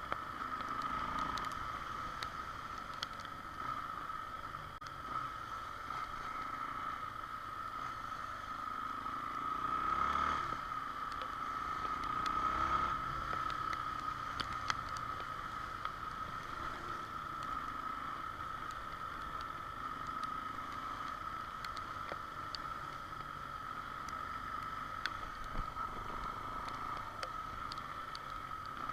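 Honda XR Tornado motorcycle on the move: a steady engine and wind noise, swelling briefly twice around the middle, with scattered small ticks.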